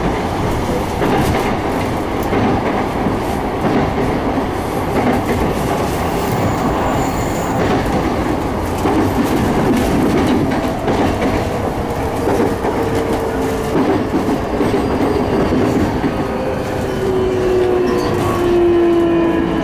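Onboard running sound of an E233 series 3000 electric train: steady rumble of wheels on rails, joined in the second half by a few whining tones from the traction motors that slowly fall in pitch as the train slows on its approach to a station.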